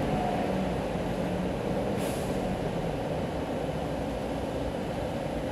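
Steady rain with city traffic on a wet road below, tyres hissing on the wet asphalt. A vehicle's engine hums through the first two seconds or so, and a short hiss sounds about two seconds in.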